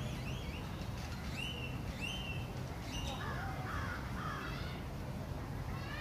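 Birds calling: a run of short chirps that rise and fall in pitch, then a few lower calls about three to four seconds in, over a steady low rumble.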